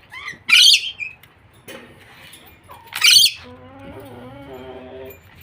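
Pet bird squawking: two loud, shrill, short calls about two and a half seconds apart, followed by softer, lower chatter near the end.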